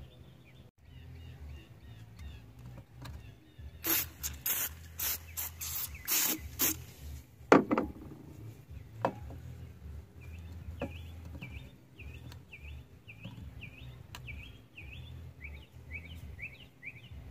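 Outdoor background with a steady low hum. A run of loud rustling noise bursts comes about four seconds in, then a single sharp knock. After that a bird chirps over and over, about twice a second.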